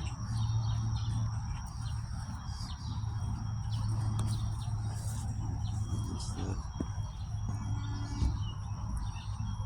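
Birds chirping in short scattered calls over a steady, high-pitched insect drone, with a low steady rumble underneath.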